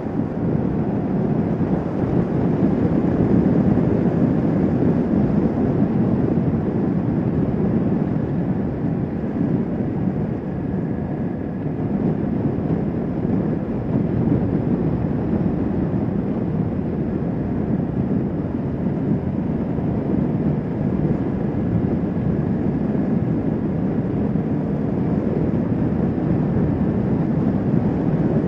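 Kawasaki Vulcan S 650 parallel-twin motorcycle cruising at a steady speed: a constant engine drone mixed with wind rush over the microphone.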